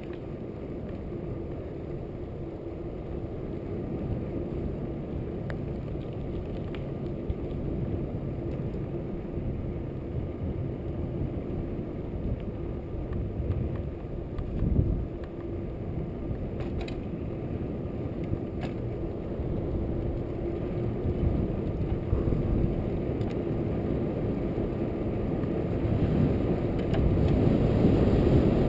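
Trek Fuel EX8 mountain bike riding along, heard as a steady low rush of tyre and wind noise with a faint hum and an occasional click or rattle from the bike. It grows louder near the end as the bike picks up speed.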